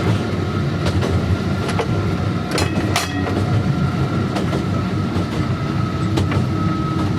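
Electric tram rolling along the track with power off, coasting: a steady rumble with irregular sharp clicks and knocks from the wheels on the rails.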